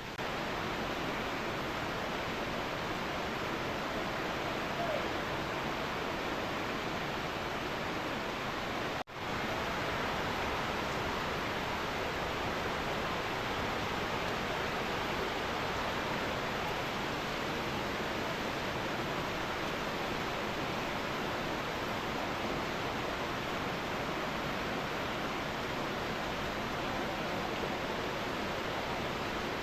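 Heavy rain pouring steadily, a dense even hiss, with a brief break about nine seconds in.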